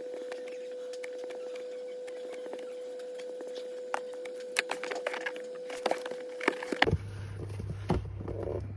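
Packaging being handled by hand: scattered sharp clicks and taps, thickest from about four seconds in, over a steady hum. Near the end the higher hum stops and a deeper hum takes over, with a few softer rustles.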